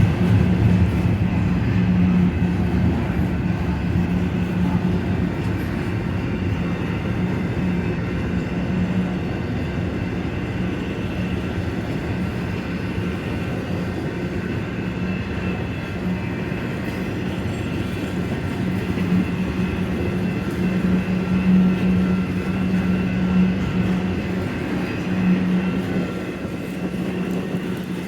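Union Pacific freight train rolling past on the rails, a steady rumble of wheels on track that is loudest at the start and eases off near the end.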